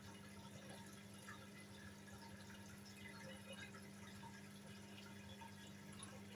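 Near silence: room tone with a faint steady low hum and scattered faint tiny ticks.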